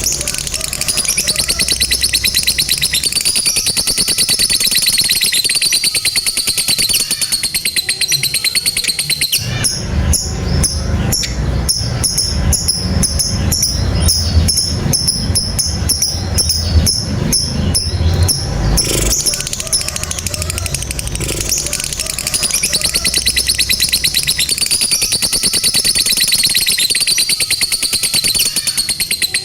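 A lovebird giving its long, unbroken 'ngekek' chatter: a very rapid, high-pitched trilling run of notes. Through the middle stretch the chatter turns coarser and more clipped, with low thuds under it, then returns to the smooth high trill near the end.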